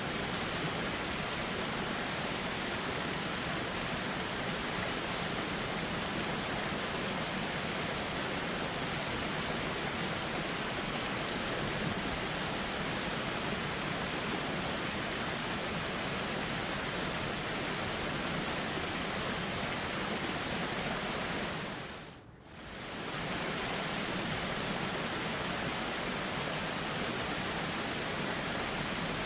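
Steady rush of flowing river water. About three quarters of the way through it briefly fades down and back up.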